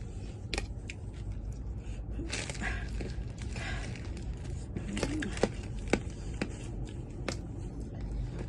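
Eating sounds: scattered sharp clicks and crunches with short stretches of soft rustling, and a brief voice sound about five seconds in.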